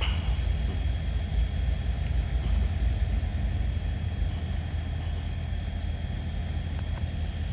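Diesel locomotive engine running steadily: a low, even drone with a faint high whine over it.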